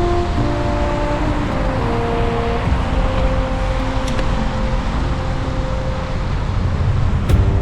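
Steady rumble of city traffic and wind-and-tyre noise from a bicycle ride on rain-wet streets, under soft background music of slow, held notes. A sharp click comes near the end.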